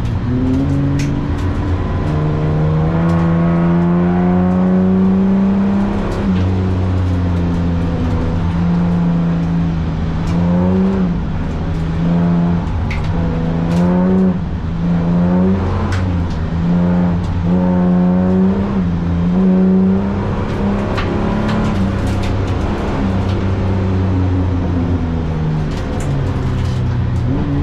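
Holden VT Commodore's 3.8-litre V6 engine driven hard, its revs climbing and falling again and again, with a run of quick dips and pickups in the middle as the throttle is lifted and reapplied.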